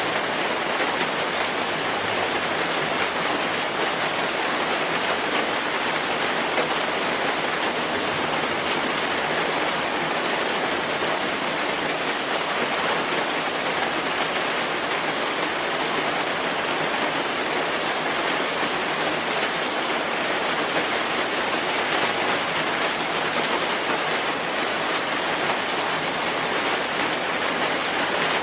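Steady rainfall: an even wash of rain with no breaks or changes.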